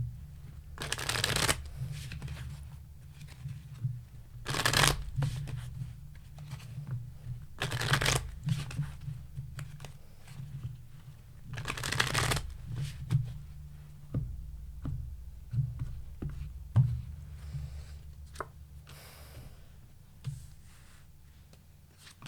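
A tarot deck being shuffled by hand: several separate shuffling bursts about a second long each, with lighter card handling and taps between them.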